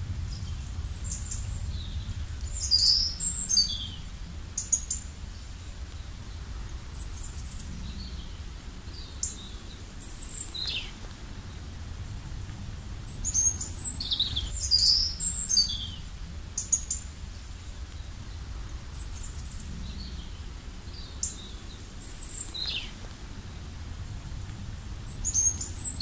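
Songbirds chirping and calling, with short high notes and quick pitch sweeps coming in clusters a few seconds apart, over a low steady rumble.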